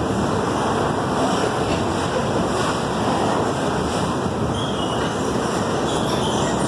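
Freight train wagons rolling past at close range: a steady rushing noise of wheels on rail.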